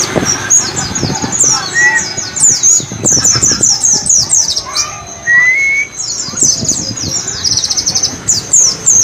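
White-eye (pleci) singing a fast chattering 'ngalas' song of 'wit wit cer' phrases: rapid runs of high, downward-slurred chirps, with a buzzy rattling trill near the end and a few lower rising whistles.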